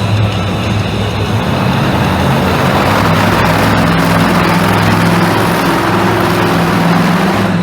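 Monster truck engine running hard under heavy throttle, its pitch climbing somewhat partway through.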